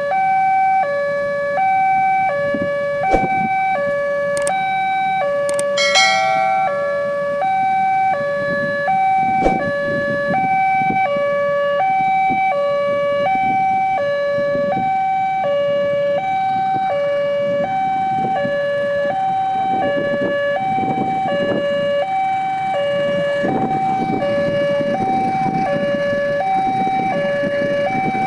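Railway level-crossing warning alarm sounding a steady two-tone hi-lo signal, switching pitch about every 0.8 s, over road traffic noise. A short high-pitched beep cuts in about six seconds in.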